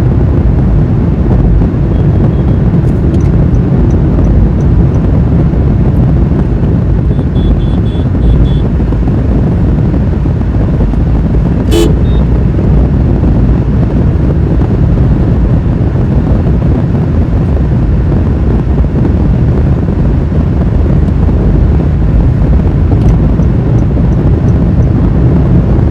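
Steady road and engine noise of a car driving at highway speed, with a single sharp click about twelve seconds in and a few faint short beeps.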